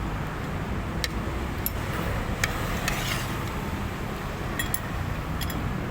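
A spoon clinking against a bowl several times at irregular intervals, over a steady low rumble of road traffic.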